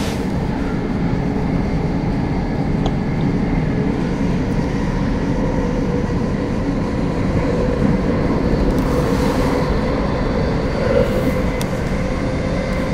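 Thameslink Class 700 electric train running at speed, heard from inside the carriage: a steady rumble of wheels on rail with a faint steady hum above it.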